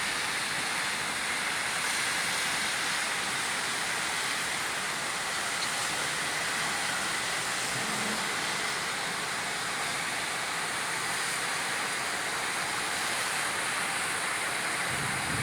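Steady rainfall, a constant even hiss. A low rumble comes in right at the end.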